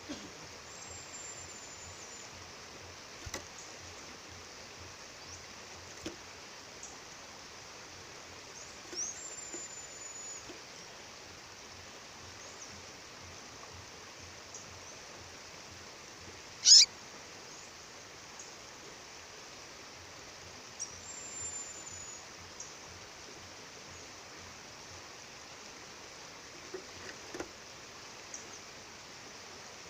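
A songbird calling with short, very high thin notes every several seconds, and one loud sharp chirp that drops steeply in pitch about halfway through, over the steady rush of a waterfall.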